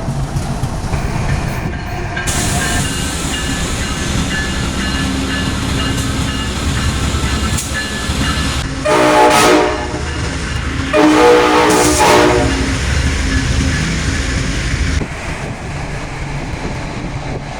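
Freight train passing with a steady low rumble. A diesel locomotive's air horn sounds two blasts: a short one about halfway through and a slightly longer one a second later.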